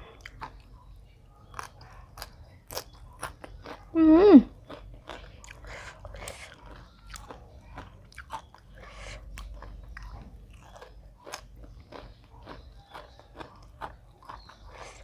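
Close-miked crunchy chewing and biting of spicy som tam (green papaya salad), with wet mouth clicks throughout. About four seconds in there is a brief, loud hummed "mm".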